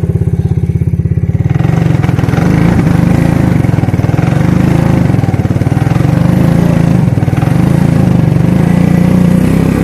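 Suzuki King Quad ATV engine at a steady, pulsing idle, then opening up about a second and a half in and running louder under throttle as the quad pulls away through the snow.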